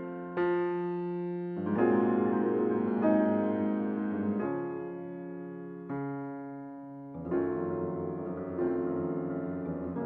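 Background music: slow, soft piano chords, each struck and left to ring and fade.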